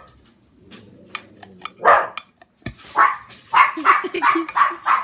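A dog barking repeatedly, short sharp barks coming in a quick string from about two seconds in.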